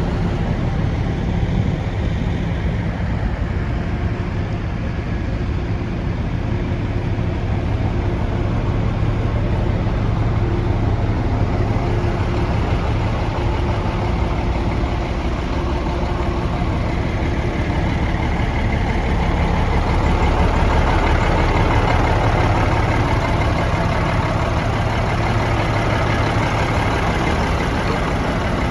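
Diesel engine of a 1991 Ford L8000 truck idling steadily. About twenty seconds in, the sound grows somewhat louder and brighter for a few seconds.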